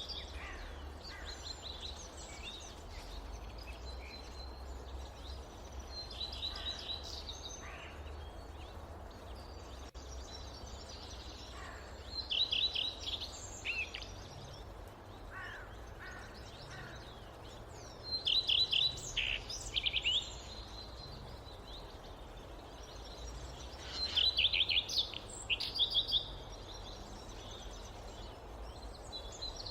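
Forest songbirds singing: a loud song of rapid repeated high notes comes about every six seconds, with fainter chirps from other birds between, over a steady low rumble.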